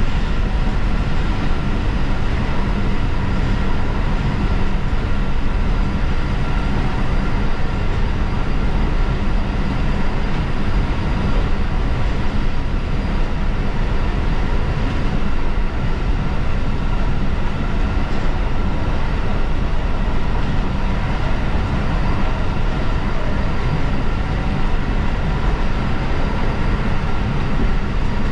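Diesel railcar running along the line: a steady rumble of engine and wheels on rail, with a few faint steady whining tones over it.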